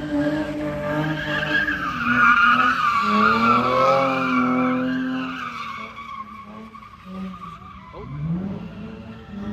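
Car sliding in a street takeover, its engine revving and its tyres squealing, loudest a couple of seconds in, then fading away after about six seconds; another rising rev comes near the end.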